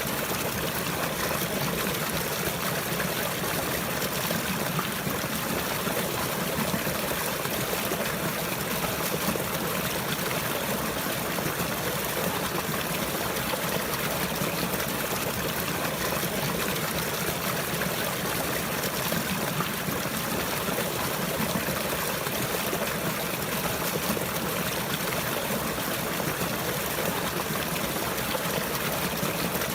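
Running water flowing and trickling steadily, an even, unbroken rush with no change throughout.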